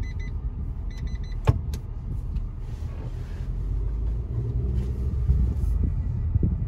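Maruti Suzuki Brezza car running with a steady low rumble, moving off once its brake is released. Short electronic beeps sound twice in the first second or so, and a sharp click comes about a second and a half in.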